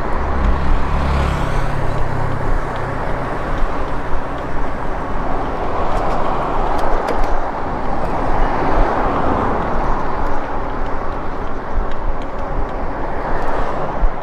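A steady rush of riding noise on an e-bike: wind over the microphone and tyres running over a rough sidewalk. The rush swells and fades about midway, and a few sharp knocks come from bumps.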